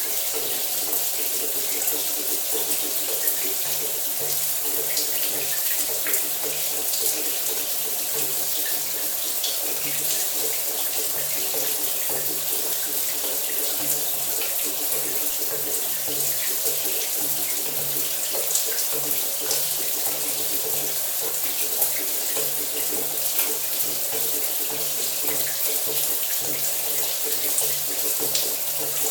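Shower running steadily, water spraying and splashing with an even hiss and scattered small drops ticking.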